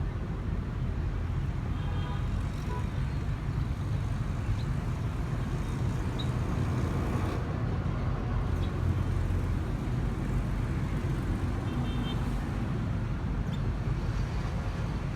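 A steady low rumble, with a few short high chirps, likely a small bird, scattered over it.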